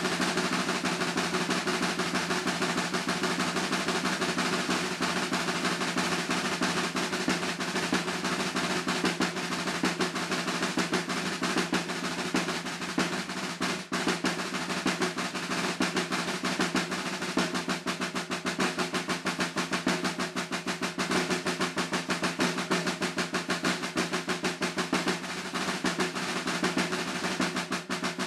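Unaccompanied snare drum solo played under tempo: dense, rapid strokes and rolls, with a brief break about halfway through and another near the end.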